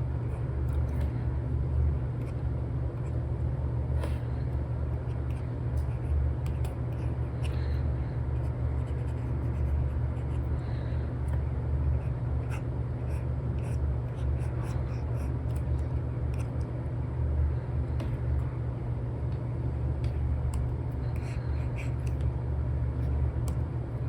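An Apple Pencil nib tapping and scratching on an iPad screen covered with a paper-like film, in irregular short strokes, over a steady low rumble.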